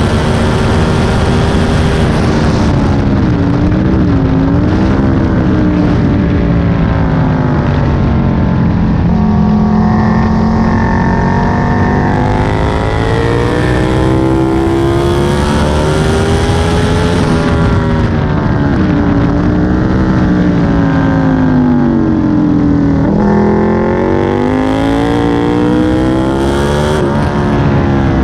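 Aprilia Tuono 1000's V-twin engine ridden hard on a racetrack, heard from onboard: the revs climb and drop several times as the bike accelerates and slows for corners.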